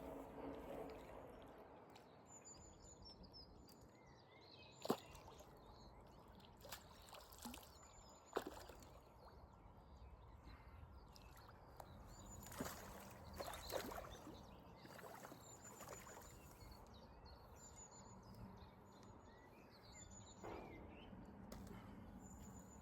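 Faint water splashing and sloshing as a hooked carp is played in and netted, with a few sharp clicks, the loudest about five seconds in.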